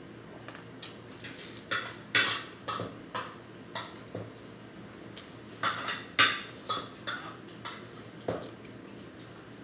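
Dishes and eating utensils clinking and clattering during a meal, with about a dozen irregular sharp knocks.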